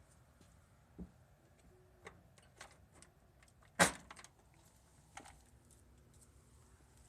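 Scattered clicks and knocks, with one sharp, loud knock a little over halfway through, typical of handling noise such as a door, latch or keys.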